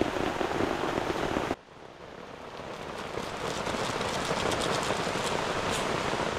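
Heavy rain falling steadily. The sound cuts off abruptly about one and a half seconds in, then comes back and grows louder, with fine pattering in it.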